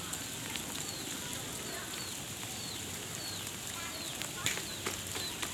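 A bird repeating a short, high, downward-sliding chirp about every half second, over a steady outdoor background with scattered clicks.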